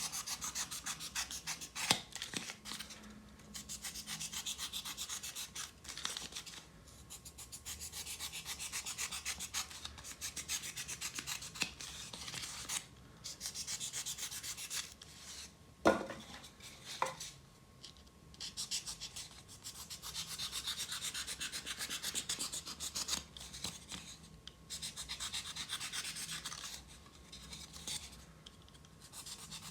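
Utility knife cutting polystyrene foam, trimming the corners off foam bricks: rapid scratchy rubbing strokes in runs of a few seconds with short pauses between, and a sharp squeak about sixteen seconds in.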